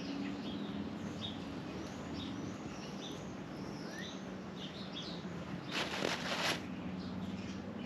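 Small birds chirping, many short high calls. A brief rustling noise comes about six seconds in.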